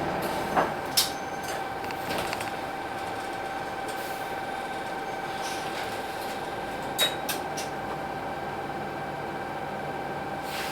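Hino Blue Ribbon City bus with its P11C diesel running steadily at a standstill, carrying a steady whine. Short sharp clicks sound about half a second and a second in, and twice around seven seconds.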